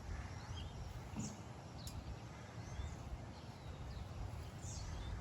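A few short, faint bird chirps over a steady low outdoor rumble.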